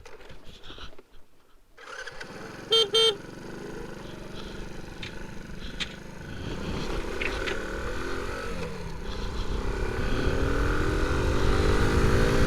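Motorcycle engine sound that drops away about a second in, then two short horn toots. The engine then runs on, rising in pitch and growing louder as it accelerates.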